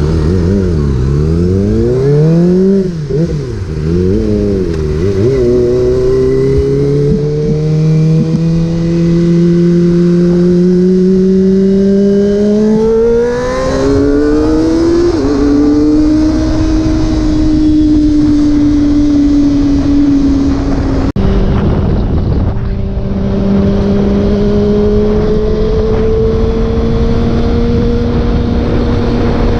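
Motorcycle engine heard from the moving bike: its note dips and rises a few times in the first five seconds, climbs steadily as the bike accelerates, rises sharply about halfway through, then drops at a gear change and settles into a steady cruise, over a constant rushing noise.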